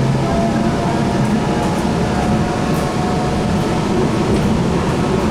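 Inside a Link light rail car running between stations in a tunnel: steady rumble of the wheels on the rails with a faint steady whine from the drive.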